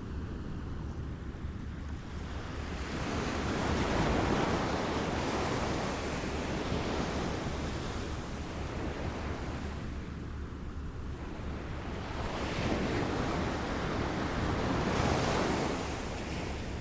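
Waves lapping on a shore, a steady wash of water that swells and falls back, with two larger surges, one a few seconds in and one near the end.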